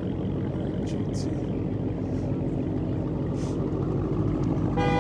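Car engines idling with a steady low rumble under background crowd chatter, with a short pitched beep just before the end.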